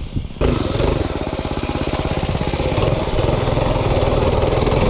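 Minibike engine running under throttle. It comes in abruptly about half a second in, then holds steady with a rapid, even firing rhythm, getting slightly louder over the next two seconds.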